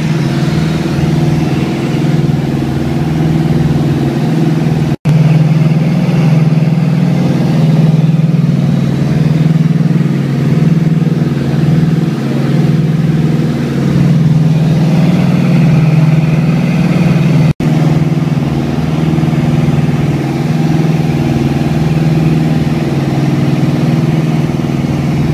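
The Piper Seneca's twin piston engines heard from inside the cabin, a loud steady drone with a slow wavering throb as the two engines run slightly out of step. The sound cuts out for an instant twice, about 5 seconds in and near 17 seconds.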